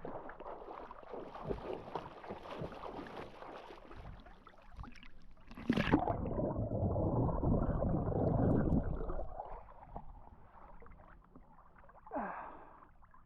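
Sea water splashing and sloshing around a swimmer as he strokes through it, with a sudden plunge about six seconds in followed by roughly three seconds of dull, muffled underwater rushing.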